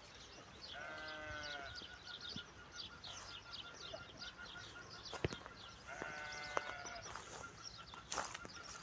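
Two long, wavering bleats from a sheep or goat, one near the start and one about six seconds in, over steady rapid high chirping.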